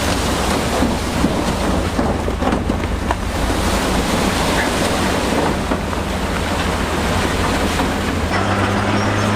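Diesel engine of a heavy earthmoving machine running under load with a steady low hum and a rough, noisy wash over it; the engine note changes and holds a steadier hum about eight seconds in.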